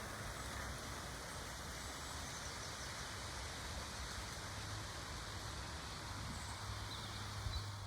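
Steady wind noise buffeting the microphone, a low rumbling hiss, with a few faint high chirps.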